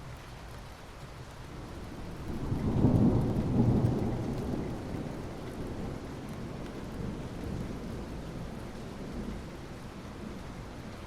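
Steady rain, with a low rumble of thunder that builds about two seconds in, is loudest for a second or two, then slowly fades back under the rain.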